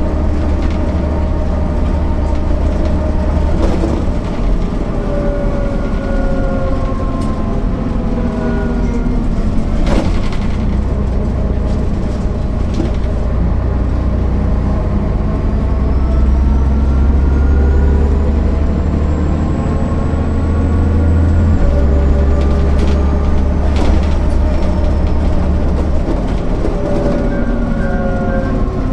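MAN NL 262 city bus driving under its own power, the diesel engine note rising and falling several times as the ZF automatic gearbox changes gear. A faint whine runs over it, and there are a few sharp knocks and rattles.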